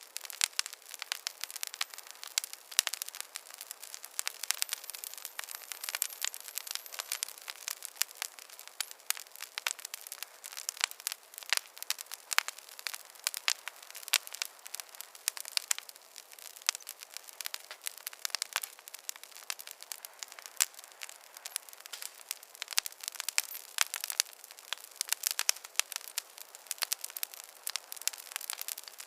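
Fireplace fire crackling: a dense, steady run of sharp pops and snaps over a soft hiss, with no deep rumble.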